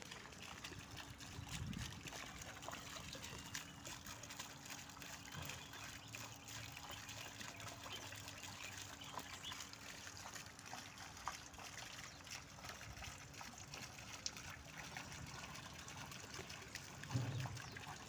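Water trickling steadily, with faint bird chirps over it. A low bump near the end.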